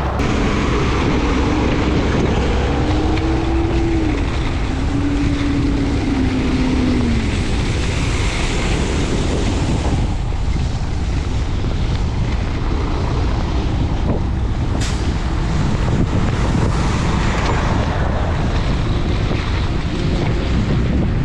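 Wind buffeting the microphone and steady road rumble from a bicycle moving fast on a snowy road. A few seconds in, a pitched note rises and falls twice; there is a single sharp click later.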